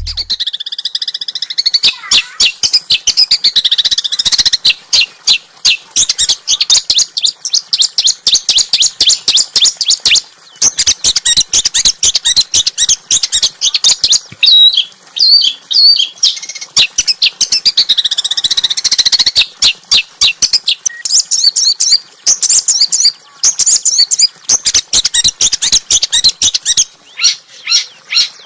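Small songbird singing a loud, rapid string of sharp, high chirps and trills, one note after another with only brief pauses: a masteran song recording for training white-rumped shamas.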